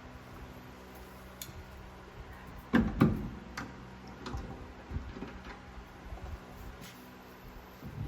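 Hand tools clinking and knocking against the metal parts of an old drum brake assembly being taken apart, in scattered sharp strikes. The loudest are two close together about three seconds in, over a faint steady hum.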